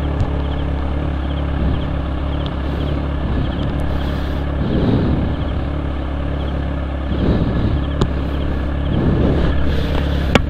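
CFMoto 400NK parallel-twin engine idling steadily in neutral.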